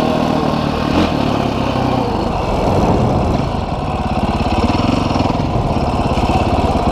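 Off-road motorcycle engine idling steadily.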